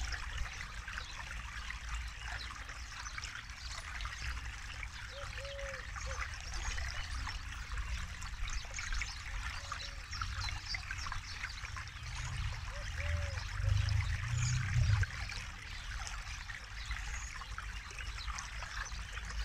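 Forest river water flowing and trickling steadily, with a low rumble that swells for a couple of seconds past the middle. A few faint short calls come through over the water.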